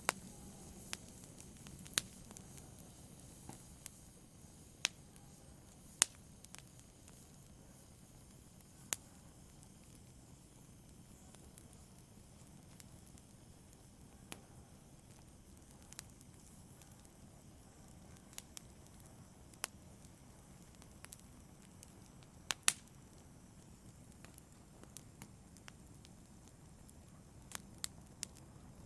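Fire burning in a fireplace: a low steady hiss with sharp crackles and pops at irregular intervals, including a quick double pop about three-quarters of the way through.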